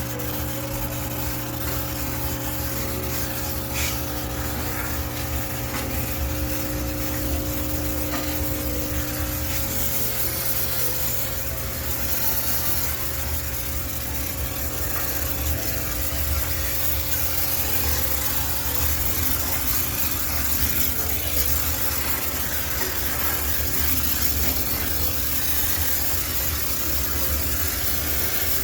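High-pressure steam cleaner running steadily: a continuous hiss of steam over a low machine hum, used to steam-sterilise a laundromat washing machine.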